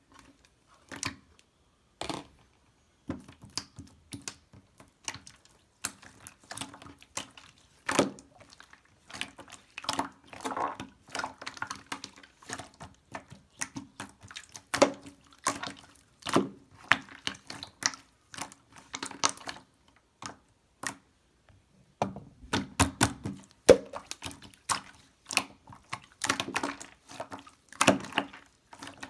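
Purple marbled slime being squished and pressed by hand: an irregular run of wet clicks and small pops.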